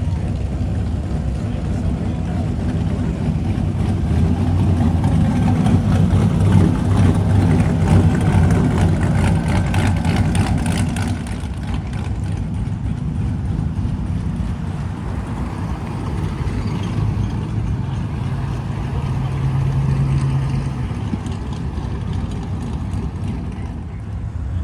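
Classic car engines rumbling past at low speed, one after another; the loudest pass comes about four seconds in and fades after about eleven seconds, with another engine passing near the end.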